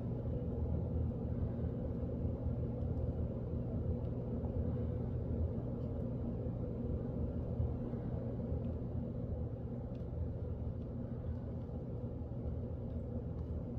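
A steady low mechanical hum with an even drone, like an idling engine, with a few faint ticks in the second half.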